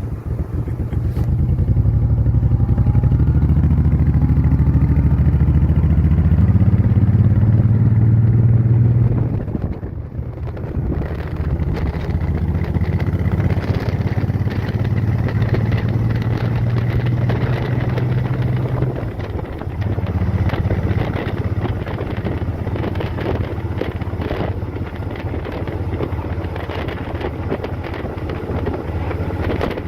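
Motorcycle engine running at road speed with wind noise on the microphone. The engine note builds over the first couple of seconds, eases off briefly about a third of the way in, then runs on steadily.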